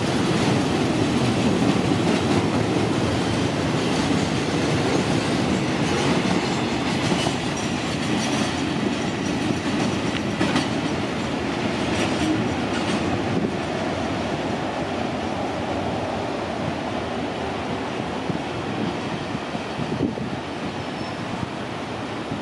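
A train running along the tracks, its wheels clicking over the rail joints, the rumble growing gradually quieter as it moves away.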